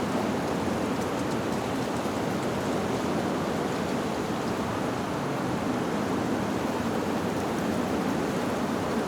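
Wind blowing steadily through leaves, a continuous even rushing with no chimes sounding.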